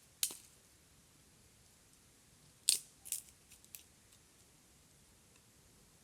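A few short, sharp clicks and crackles: one about a quarter of a second in, then a quick cluster of them around three seconds in, over a quiet background.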